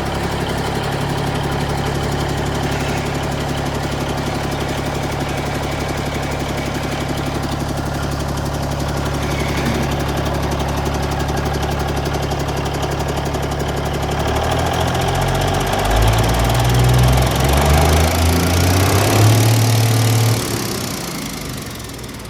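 Cummins N14 460 HP straight-six diesel in a Peterbilt 379 idling steadily, then revved up in several steps about fourteen seconds in, and dropping back down near the end.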